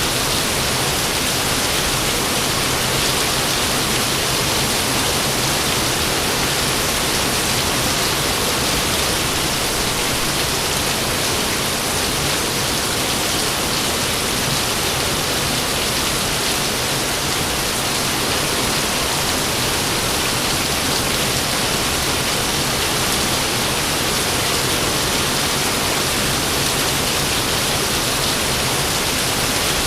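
Heavy rain falling steadily, a dense even hiss that holds the same level throughout, with no thunderclaps.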